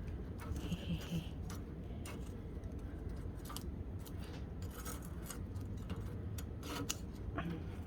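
Wood fire crackling in a hearth: scattered sharp ticks and small pops over a low steady rumble.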